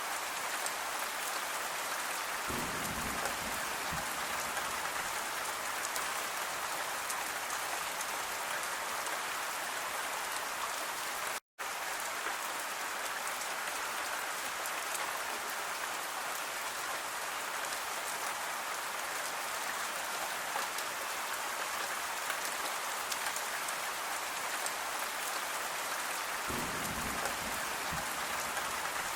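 Steady rain falling, a dense even hiss of drops, with a soft low rumble coming in briefly twice. The sound cuts out completely for an instant about eleven seconds in.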